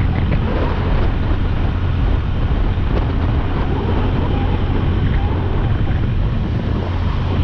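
Motorcycle running at a steady cruise, its low engine hum under heavy wind rush on the microphone.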